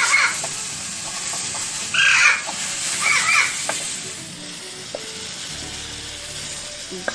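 Beef strips, sausage, onion and tomato sizzling in a wok over a wood fire as the pan is tossed and the food stirred with a wooden spoon. The sizzle slowly dies down toward the end.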